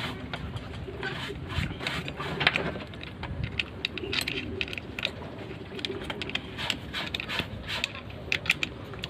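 Irregular clicks, light knocks and scrapes of metal parts being handled, as the chainsaw adapter is fitted to an angle grinder; the grinder itself is not running.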